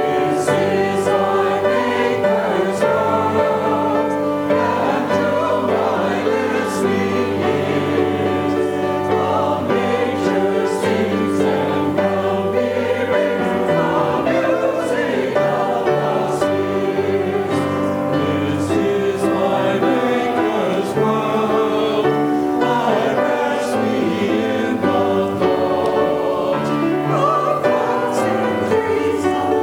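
Church choir singing, with sustained instrumental accompaniment underneath.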